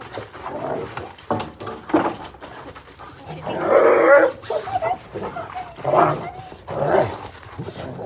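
Excited dogs whining and barking at close range, with short bending cries throughout and a louder cry about three and a half seconds in that lasts about a second. Scattered knocks and scuffles are mixed in.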